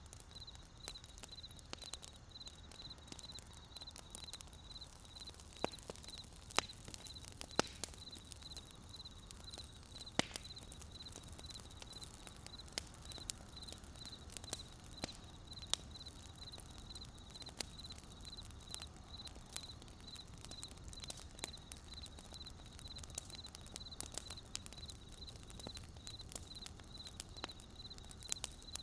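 Wood fire crackling, with scattered sharp pops over a low rumble. A steady, evenly pulsed high chirp runs alongside and cuts off at the very end.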